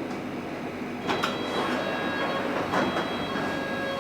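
Metropolitan line train running into a station with steady running noise. From about a second in come several sharp clicks and thin high steady squeals, typical of the train braking toward the platform.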